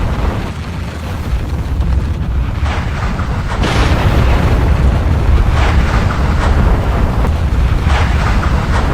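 Volcanic eruption: a continuous deep rumble with surges of louder, rushing noise about every two seconds, the strongest a little over a third of the way in.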